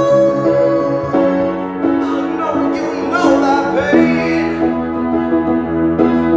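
Music: keyboard chords played in a steady pulse, changing chord about a second in and again about four seconds in.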